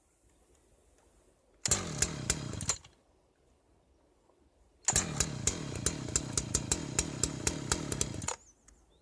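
Jonsered CS 2159W two-stroke chainsaw engine firing up for about a second and then stopping, then running again for about three and a half seconds with a regular popping before cutting out.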